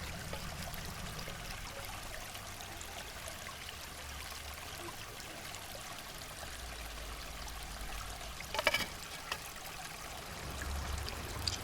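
River water flowing steadily, with a low rumble underneath. A short clatter of clicks comes about eight and a half seconds in.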